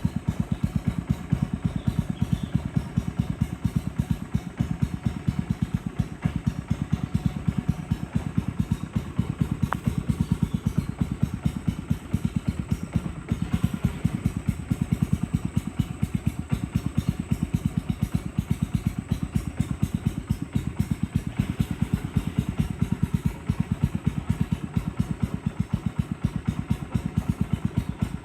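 A boat's engine running steadily, with a low, fast, even thumping beat.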